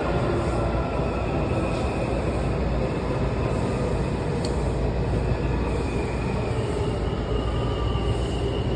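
Washington Metro train noise: a steady low rumble with faint whining tones that drift slowly in pitch.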